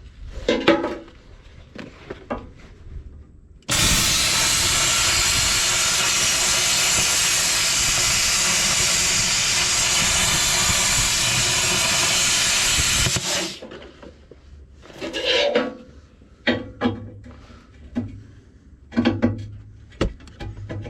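Handheld plasma cutter cutting through quarter-inch steel plate: a loud, steady hiss that starts abruptly about four seconds in and cuts off after about nine seconds. Short clicks and knocks come before and after it.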